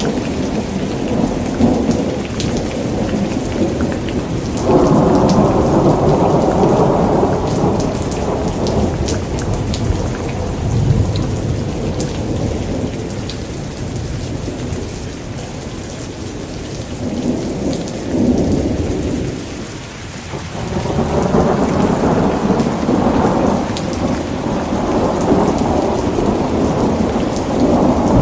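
Steady rainfall with rolling thunder. The rumbles swell up about five seconds in, briefly again past the middle, and through most of the last third.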